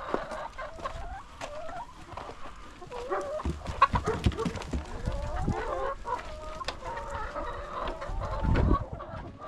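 A flock of chickens clucking: many short, overlapping calls, with scattered light clicks and knocks.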